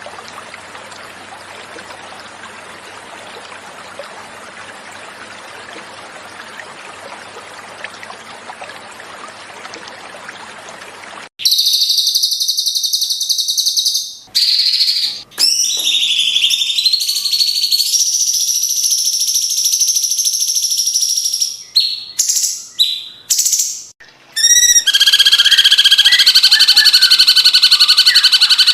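Flowing water trickling for about the first eleven seconds, then a sudden cut to loud, clear cucak cungkok bird song: high whistled phrases broken by short gaps, ending in a steady rapid trill.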